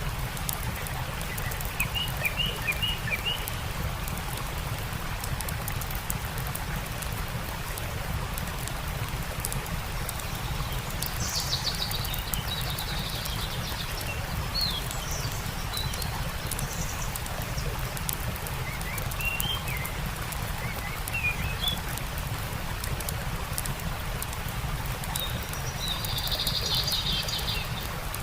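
Small birds chirping in short runs of quick high notes, several times over, above the steady rush of a stream, with fine crackling from a campfire.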